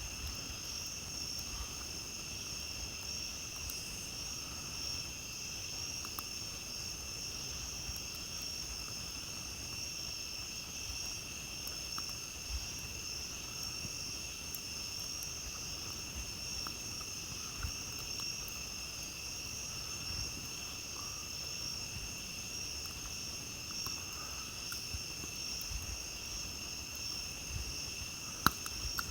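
Steady night chorus of crickets and other insects trilling in a continuous high drone, with scattered faint crackles from a campfire and one sharp pop near the end.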